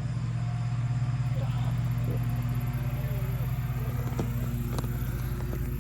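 A steady low motor hum with an even drone throughout, and a few faint clicks on top.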